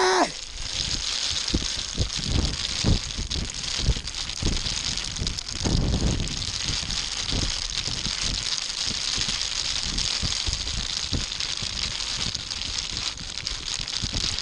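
Snowstorm wind blowing across the camera microphone: a steady hiss of wind-driven snow with irregular low gusts and knocks buffeting the mic.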